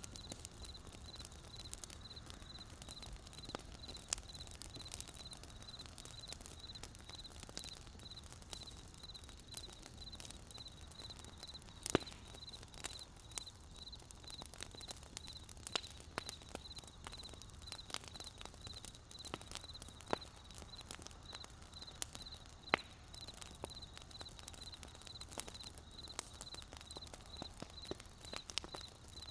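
Wood campfire crackling, with irregular snaps and sharper pops every few seconds, the loudest about twelve seconds in. Behind it runs a steady high chirping pulse, repeating a few times a second.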